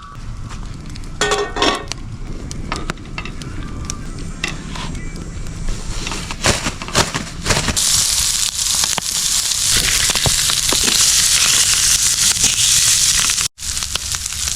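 Food frying in a pan over a campfire: scattered crackles and pops, then from about eight seconds in a steady, loud sizzle, broken by a brief dropout near the end.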